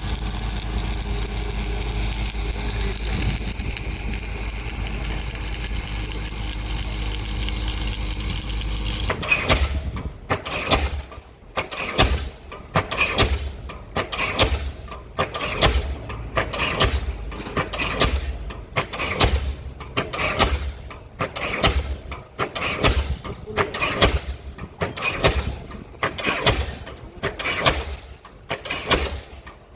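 A steady, low engine rumble from the pile-driving rig. About nine seconds in, a diesel pile hammer starts firing in a regular rhythm of sharp blows, a little more than one a second, that keeps going.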